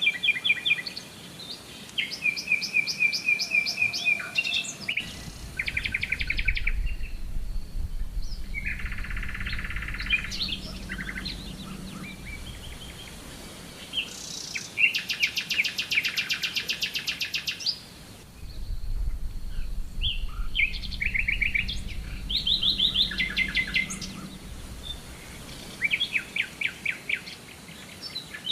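Songbirds singing in a string of short phrases: rapid trills and runs of repeated chirps, with brief pauses between them.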